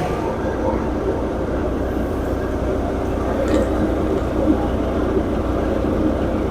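A tractor-driven wheat thresher running steadily, the tractor engine's low hum under the churning clatter of the threshing drum as wheat is fed in.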